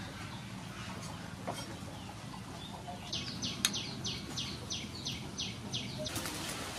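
A bird singing a quick series of about nine short falling notes, about three a second, with one sharp knock partway through.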